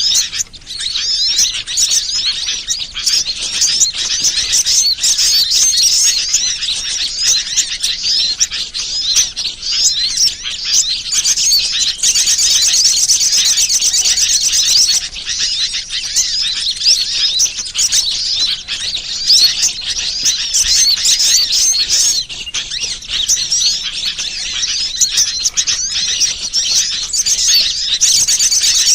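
Dense, continuous high-pitched chirping and twittering of small songbirds, a bird-lure call recording, with stretches of fast, even trills about twelve seconds in and again near the end.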